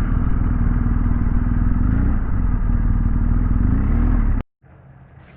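BMW R1250GS motorcycle running at cruising speed, with wind and road noise on the microphone, cutting off abruptly about four and a half seconds in to a quiet outdoor background.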